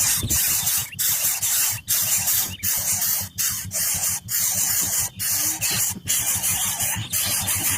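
Harsh, loud hissing in repeated bursts, each under a second long with brief breaks between them.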